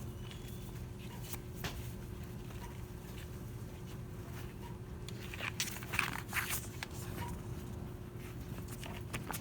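Steady hum of a shop's background, with a constant low tone, scattered small clicks, and a brief crackling rustle about five and a half to six and a half seconds in.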